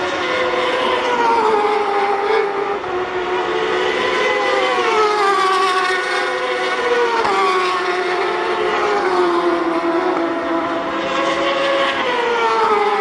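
Racing superbike engine running at high revs without a break. Its pitch climbs and falls repeatedly, with sharp drops about five and seven seconds in and again near the end, as the rider works through the gears and corners.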